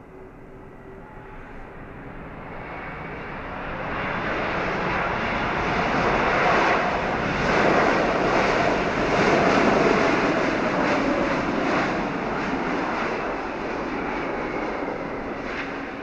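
Jet engines of a Boeing airliner passing close. The sound swells steadily to a peak about halfway through, the tone sliding lower as it goes by, then fades.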